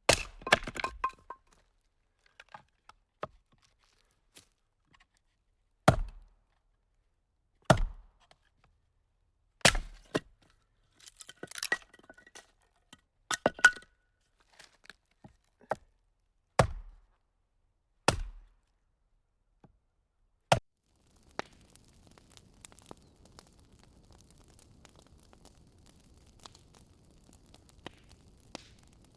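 Wood campfire crackling, with loud, sharp single pops every couple of seconds and a run of small snaps about halfway through. From about two-thirds of the way in, only a faint steady hiss with occasional tiny ticks remains.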